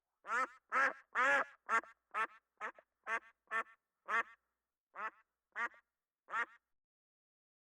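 Duck quacking: a series of about a dozen short calls that grow quieter and further apart, then stop.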